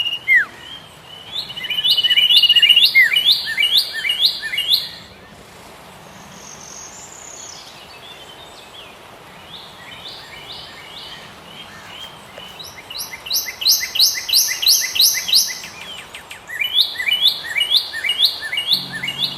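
Birds singing: fast series of repeated high chirps, about three a second, over a steady high trill at the start. The calling drops away for several seconds in the middle, then comes back loud again in the last third.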